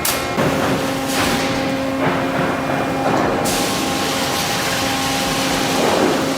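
Machinery running with a steady pitched hum under a rushing noise; the high hiss falls away about halfway through.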